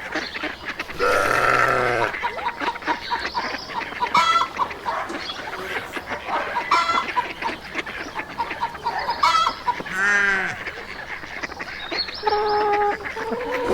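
Farmyard poultry calling: a string of separate honking and squawking calls, the longest lasting about a second, others short and spaced a few seconds apart.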